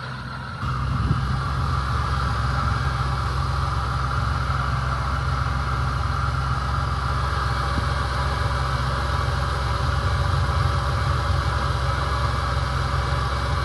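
2006 Jeep Liberty engine idling steadily, getting louder about half a second in and then holding an even hum.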